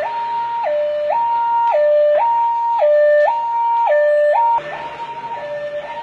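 Fire truck's two-tone hi-lo siren, switching between a higher and a lower note about twice a second. About four and a half seconds in it suddenly gets quieter and keeps going.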